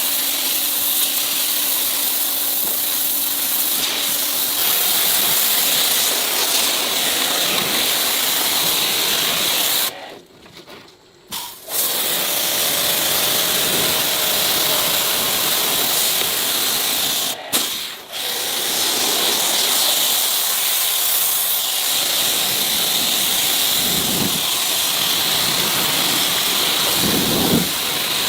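A steady hiss, with two brief cutouts about ten and seventeen seconds in.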